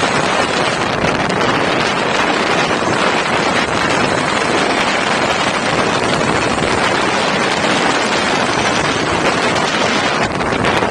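Loud, steady wind noise rushing over the microphone.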